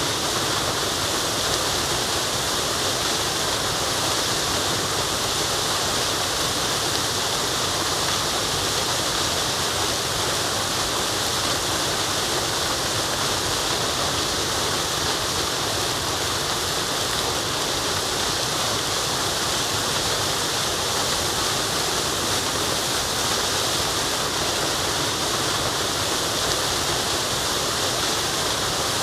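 Waterfall: water falling and rushing in a steady, unbroken hiss, strongest in the high range.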